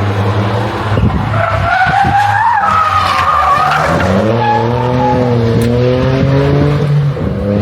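Rally car on a special stage, tyres squealing as it slides through the first few seconds, then its engine note climbing as it accelerates away.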